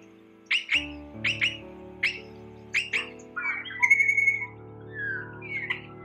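Birds chirping: short sharp calls repeated every half second or so, turning into more varied calls with a held whistled note about four seconds in. Background music with sustained chords plays underneath.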